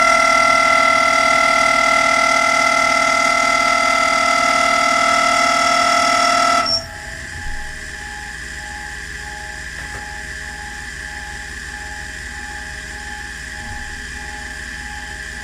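Workshop machine tool running with a loud, steady whine of several tones. It drops abruptly to a quieter steady hum a little under seven seconds in.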